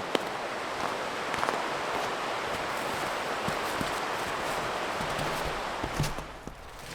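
Steady rush of running stream water that drops away about six seconds in.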